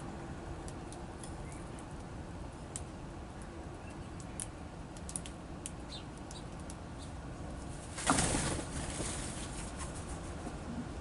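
Small songbirds at a feeder: scattered faint ticks and clicks, then about eight seconds in a sudden flutter of wings lasting about a second as birds take off.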